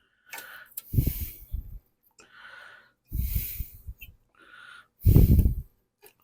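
Heavy breathing close to the microphone: three loud rushing breaths about two seconds apart, with a quieter breath between each.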